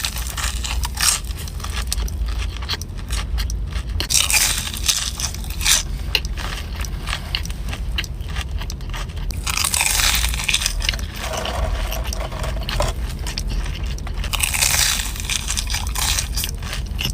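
Close-up crunching bites and chewing of a Korean corn dog: a few loud crunchy bursts several seconds apart, with quieter chewing clicks between them, over a steady low hum.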